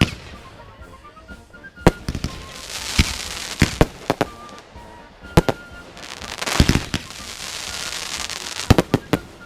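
Fireworks going off: sharp bangs at irregular intervals, several in quick succession near the end, with stretches of crackling between them.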